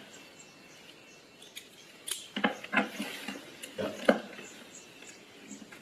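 Small sharp clicks and taps of a screwdriver working on the handle screws of a battery pack's case, half a dozen in the second half.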